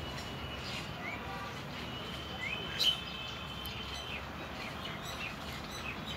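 Small birds chirping in the background over a steady low hiss: short rising chirps and thin high calls, the loudest about three seconds in.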